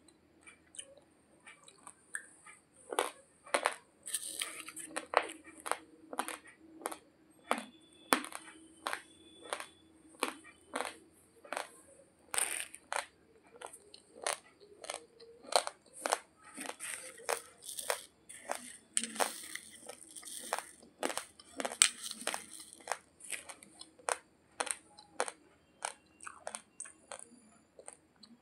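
Raw, uncooked basmati rice grains being chewed: a long run of sharp, dry crunches at about two a second.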